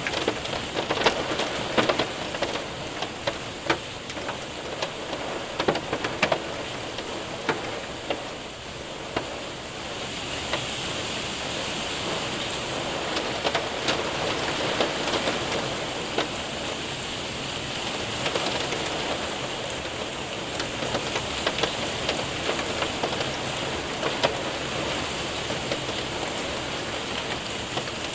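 Hail and rain hitting a window and roof: a steady rain hiss scattered with sharp ticks of hailstones. The ticks are thickest in the first third, then the steadier rain hiss takes over.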